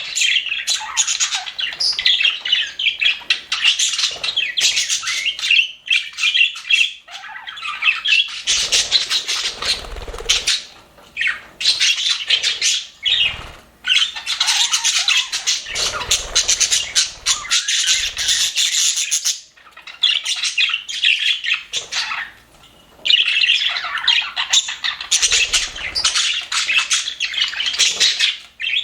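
Budgerigars chattering and warbling together, a busy run of rapid high chirps broken by a few short lulls.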